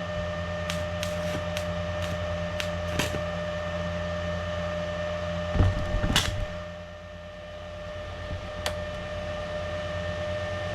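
An electric motor running with a steady hum and whine, with a few sharp clicks early on and a louder clatter about six seconds in.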